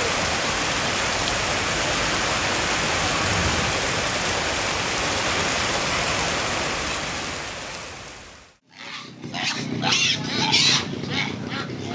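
Heavy downpour: a steady hiss of rain, which fades out about eight and a half seconds in. Then come ducks quacking in a quick run of calls.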